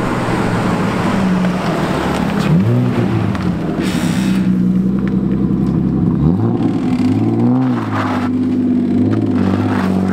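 Car engine running, its revs rising and falling several times, with a brief hiss about four seconds in.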